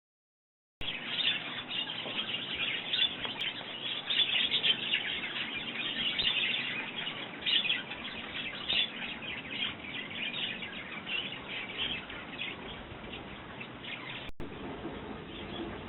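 Sparrows chirping in a busy, continuous chatter at the garden feeders, starting about a second in. The chatter is densest in the first half and thins somewhat toward the end.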